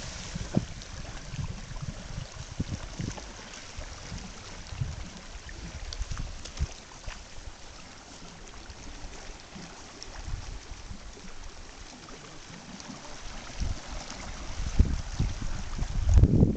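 Running river water with a steady rush, overlaid by irregular low bumps and rumbles on the microphone that grow heaviest near the end.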